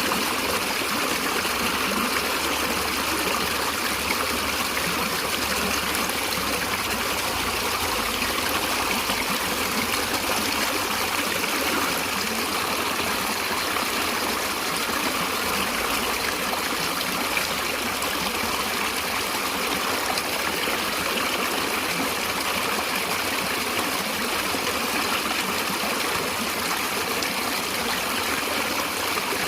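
Stream water flowing and trickling in a steady, even rush.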